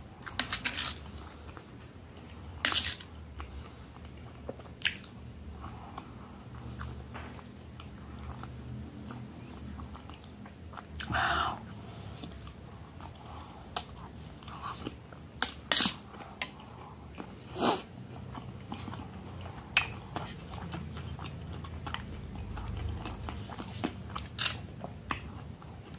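Close-miked chewing and mouth sounds of a person eating rice, beans and soft boiled cassava. A metal spoon clinks and scrapes against a metal plate every few seconds.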